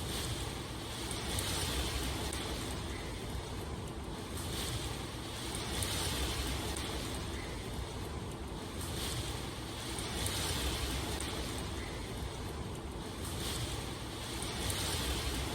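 Steady rain, an even hiss that swells slightly about every second and a half.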